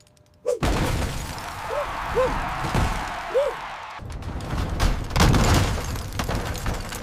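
Demolition sound effects of a wrecking ball smashing into a building: a sudden loud crash about half a second in, a long rumble of crashing debris, then a second loud surge of crashing.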